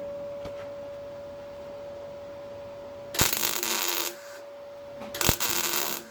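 MIG welder laying two short tack welds: two crackling bursts of about a second each, around three and five seconds in, over a steady hum.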